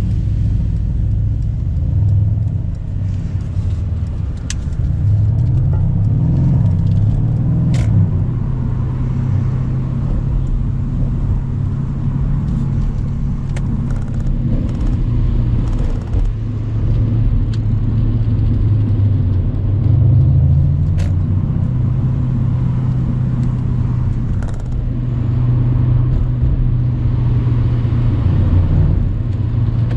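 Mercedes-AMG C63 cabriolet's twin-turbo V8 running while driving, its pitch stepping up and down with throttle and speed changes. A few sharp clicks sound now and then.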